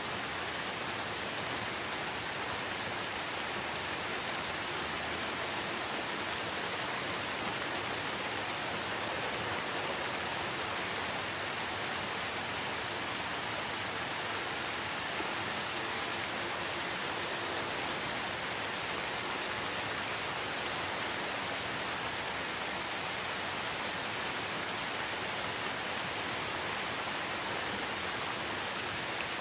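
Steady rain falling on foliage and surfaces, an even hiss with scattered drop ticks.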